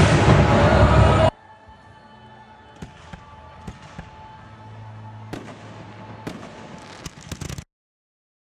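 Loud, dense fireworks barrage of overlapping bangs and crackle that cuts off abruptly about a second in. After it come a few faint, scattered pops over a low hum, and the sound goes dead near the end.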